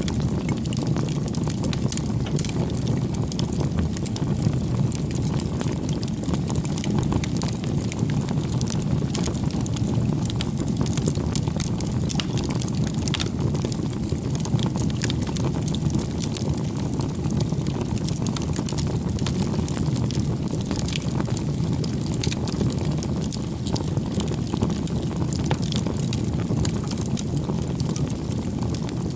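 Wood campfire burning: a steady low rush of flame with frequent small, irregular crackles and pops.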